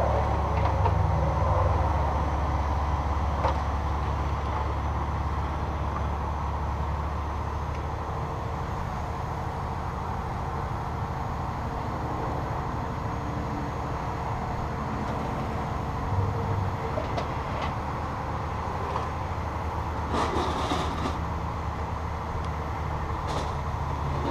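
Heavy diesel dump truck engine running steadily at a low rumble, with a short burst of noise about twenty seconds in.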